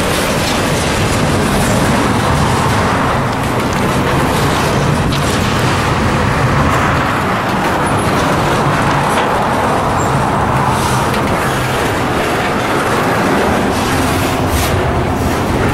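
Train rolling past at close range: a steady rumble with the noise of wheels on the rails and occasional clicks.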